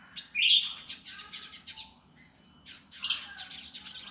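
Songbird of the kind Indonesian keepers call the indigo, singing its harsh, fast, tightly packed song: two loud phrases of rapid rattling notes, the first starting just after the start and the second about three seconds in.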